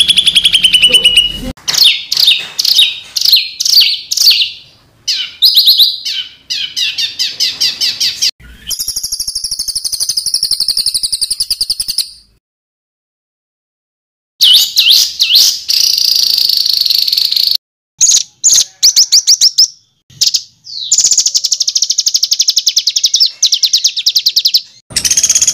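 Songbird singing fast, harsh trills and stuttering bursts of high notes, in separate phrases with a silence of about two seconds midway.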